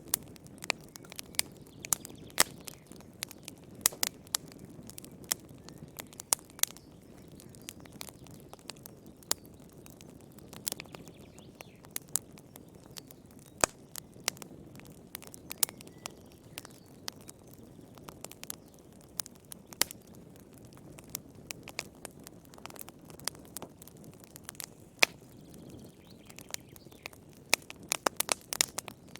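Wood fire burning in a fireplace: a steady low rumble of flames with irregular sharp crackles and pops, coming thick and fast near the end.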